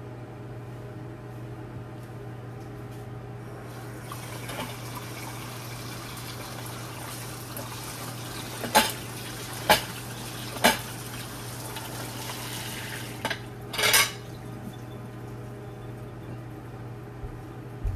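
Water running for several seconds with dishes clinking sharply a few times and a short clatter near the end, over the steady low hum of a running microwave oven.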